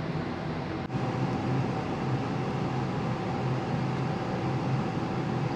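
Steady mechanical drone aboard the ferry Hamayuu under way: engine and ventilation hum with a faint steady whine, briefly dipping about a second in.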